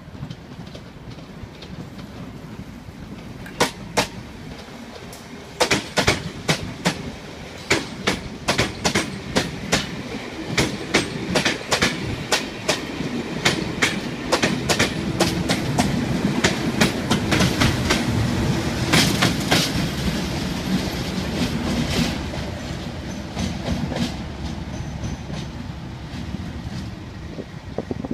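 Test train passing through the station: its wheels click sharply and rapidly over the track joints as the coaches go by. In the second half a Class 37 diesel locomotive's English Electric engine runs loudly as it passes, then the whole train fades away.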